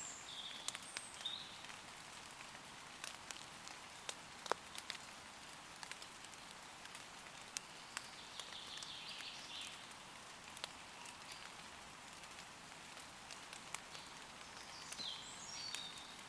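Steady light rain pattering on leaves, a soft hiss with many sharp individual drips. Woodland birds chirp briefly near the start, around the middle, and again near the end.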